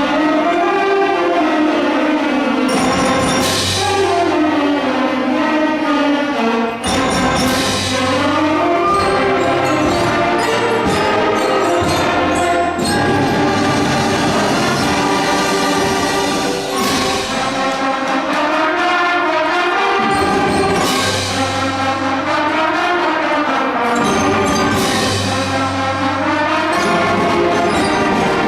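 School concert band playing, with low brass lines sliding up and down in repeated swoops and several loud crashes over the ensemble.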